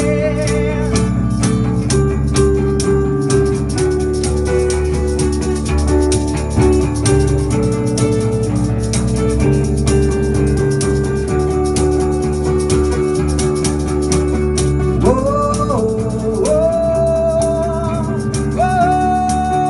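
Acoustic rock band playing an instrumental stretch of the song: acoustic guitar and rhythmic percussion, joined in the last few seconds by long wordless sung notes with vibrato.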